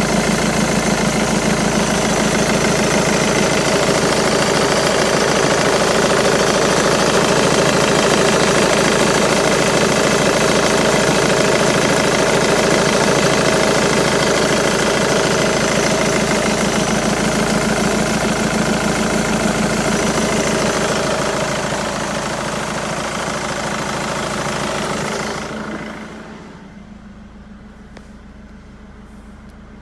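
Jaguar X-Type 2.2 diesel engine idling with the air conditioning on, with a noise coming from the auxiliary belt drive. The sound is loud and steady, then drops sharply to a faint remnant near the end.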